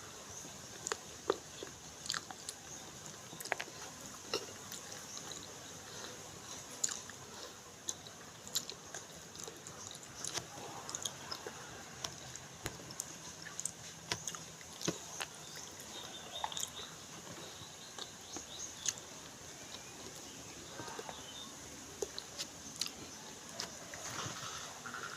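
Close-miked mukbang eating: a person chewing and biting with open mouth, with irregular small clicks and crunches as food is bitten and handled.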